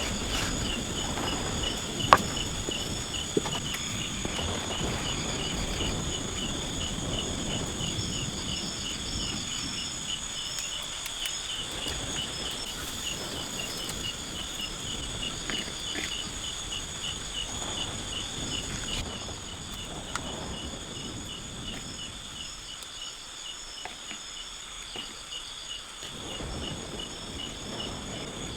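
Insects calling steadily: a rapid, evenly pulsing trill with steady high buzzing tones above it. A sharp knock comes about two seconds in, and low rustling noise in the first half fades away later.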